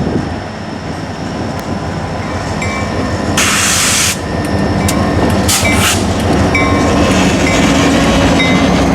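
Southern Railway EMD diesel locomotives, an SD40-2 and a GP30, running as they lead a train closer, with engine drone and rail noise growing louder. Two short bursts of hiss come about three and a half and five and a half seconds in. No horn is sounded.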